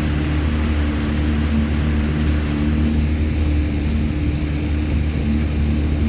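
Boat motor running steadily at cruising speed, a constant low drone with no change in pitch or speed.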